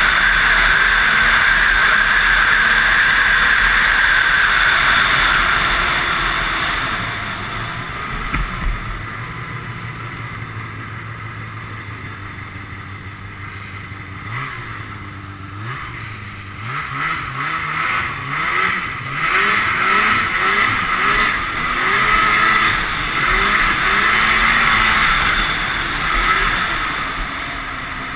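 Ski-Doo Blizzard 5500's fan-cooled Rotax twin two-stroke engine running hard for the first several seconds, then settling to a steadier, lower speed, then revved up and down over and over through the second half.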